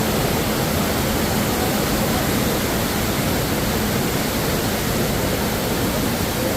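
Steady, loud rushing noise with no rhythm or breaks.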